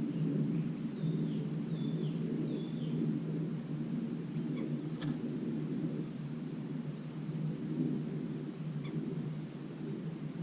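Small birds chirping faintly, short high wavering calls and a few down-slurred notes, over a steady low rumble, with two sharp clicks.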